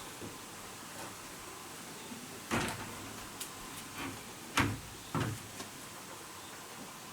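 Three sharp wooden knocks, the second and third half a second apart, with a few faint clicks between them, like a wooden door or cupboard being handled.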